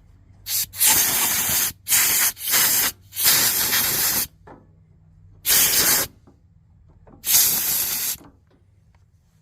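Compressed air hissing out of an air blow gun in about seven short blasts of varying length, with pauses between them, blowing out the heater's air filter.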